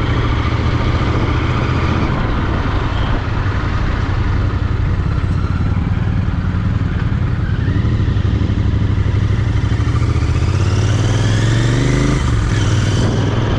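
Royal Enfield Continental GT 650's parallel-twin engine running steadily under way, its pitch rising over the last few seconds as it accelerates and dropping back near the end.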